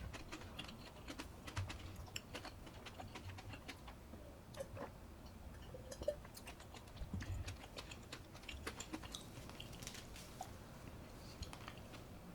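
Close-miked eating sounds: chewing with irregular crisp clicks and soft low thuds.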